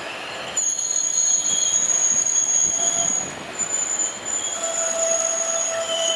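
A train squealing as it moves, with several high, steady, piercing tones over the rumble of the train. The sound gets louder about half a second in, and a lower squeal joins about four and a half seconds in.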